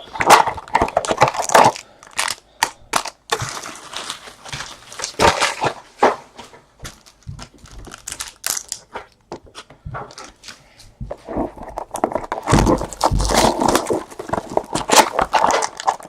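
Trading card pack wrappers crinkling and tearing as packs are opened, with cards being handled: irregular crackles, thicker and louder in the last few seconds.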